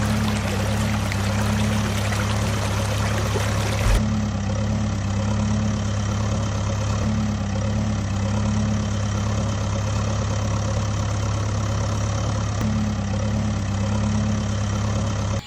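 A heavy vehicle engine running steadily with a low, even hum. The upper part of the sound changes abruptly about four seconds in, like a cut between two pieces of engine sound.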